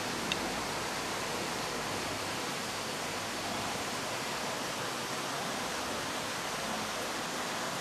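Steady, even rushing hiss with no breaks or changes.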